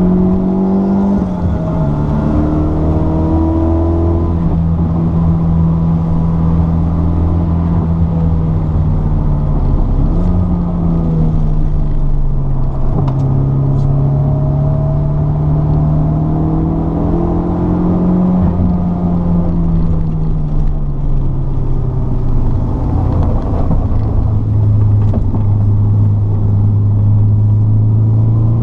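Car engine heard from inside the cabin while lapping a race track. Its note climbs and falls several times as the car accelerates and slows through the corners, with a drop about a second in and a steady lower note near the end.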